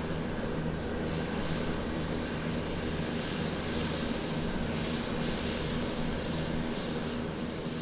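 Airbus A380's four GP7200 turbofan engines at takeoff power, a steady continuous rumble with a low hum and broad jet hiss.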